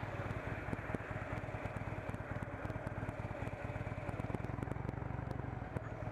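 Harley-Davidson Dyna Low Rider's V-twin engine running steadily with an even low pulsing.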